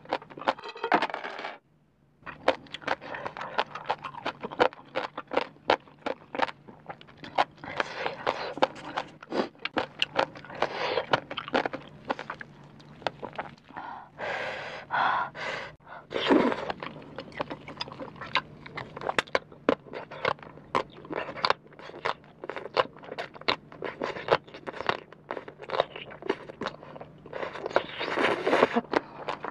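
Crisp, crunchy chewing of a rau tiến vua (celtuce stem) salad: a rapid run of crunches with short pauses, then a slurp as a strand is drawn into the mouth near the end.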